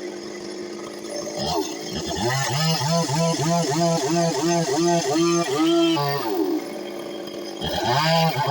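Stihl two-stroke chainsaw revved in rapid repeated throttle blips, about two and a half a second, each rising and dropping back. It settles briefly, then revs again near the end.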